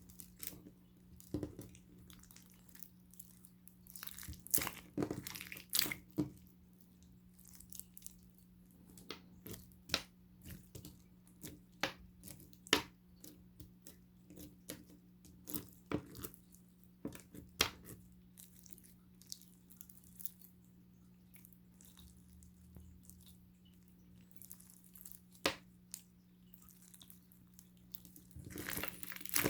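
Slime with toppings mixed in being squished, pressed and stretched by hand: irregular sticky clicks, pops and crackles, denser in bursts, over a steady low hum.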